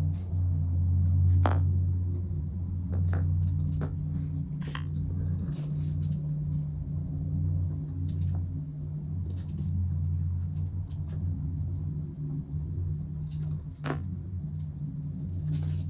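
Light clicks and taps of small parts and tools being handled while leather valves are glued onto accordion reed plates, over a steady low hum.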